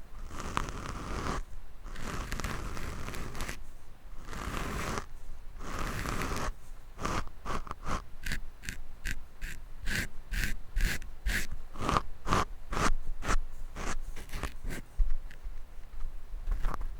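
Scratching directly on a microphone: long rasping strokes of about a second each at first, then a run of quick short scratches and taps, two or three a second.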